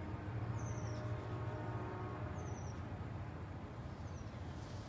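A low, steady background rumble, with a small bird giving short, high chirping trills three times: about half a second in, about two and a half seconds in, and near the end.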